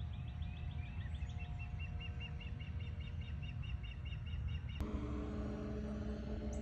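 A songbird singing a fast run of repeated chirps, a few slurred notes and then evenly spaced ones about five a second, over a low rumble. Near the end the sound cuts off abruptly to a steady low hum.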